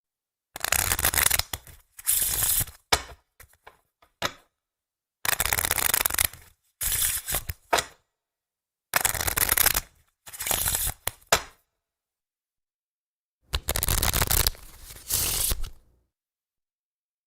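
A deck of playing cards being shuffled and handled on a table: about seven short bursts of riffling, each a second or so long, separated by complete silence, with a few light card taps about three to four seconds in.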